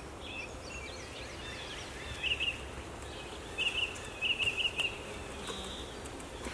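Songbirds calling: a bird repeats short bursts of three to five quick high chirps several times, with other warbling bird notes in the first two seconds, over a faint low background rumble.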